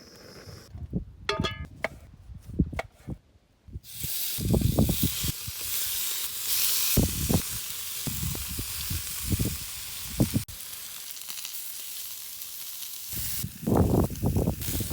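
Salmon frying in a hot pan: a loud, even sizzle that starts suddenly about four seconds in and stops shortly before the end, preceded by a few knocks and a brief metallic ring, with low handling thumps throughout.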